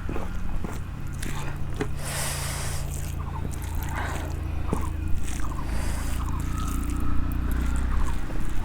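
Close-up eating sounds: wet chewing and squishing of rice and fish curry, with small mouth clicks, over a low steady background hum.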